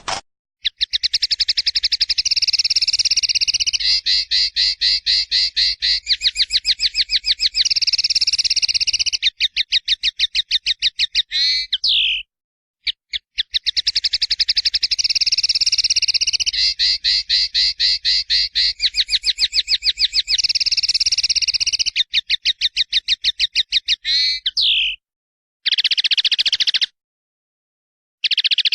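A songbird singing long, fast rolling trills of rapid, even high notes. A short gap comes about twelve seconds in, then the same long trilling phrase again, then two shorter bursts near the end.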